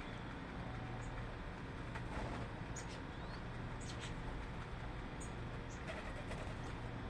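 Small birds giving short, very high chirps, scattered several times, over a steady low hum.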